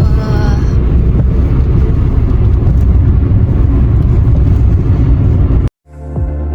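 Car cabin noise while driving: a loud, steady rumble of engine and tyres on the road, heavy in the bass. It cuts off suddenly about five and a half seconds in, and electronic music fades in near the end.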